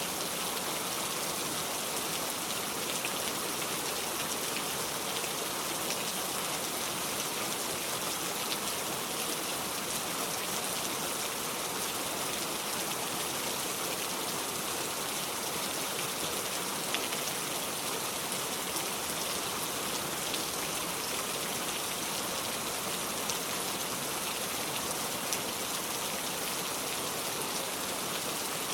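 Steady rain falling, with the fine patter of raindrops and a few slightly louder drops standing out now and then.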